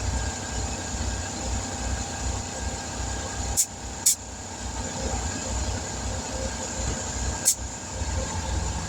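Air compressor running with a steady pulsing chug while air hisses into the freshly patched tire to bring it back up to pressure. Three short clicks are heard, two close together around the middle and one later.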